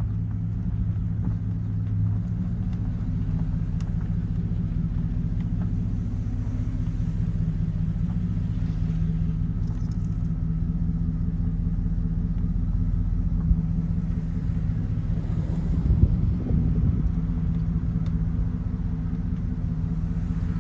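A car's engine running with a steady low drone as the vehicle moves slowly, heard from inside the vehicle.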